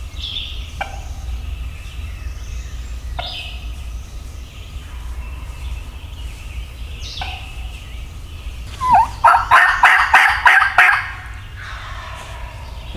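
A wild turkey gobbling once, loud and close: a rapid rattling call lasting about two seconds, starting about nine seconds in. A few short, high, downward-sliding calls come before it.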